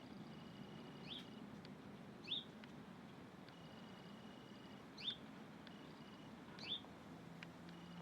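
A bird calling with short, rising chirps, four of them spaced one to three seconds apart, over a faint steady background noise.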